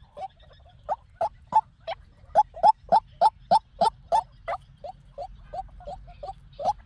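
White-breasted waterhen calling: a run of short, repeated notes, about three a second, louder from about a second in.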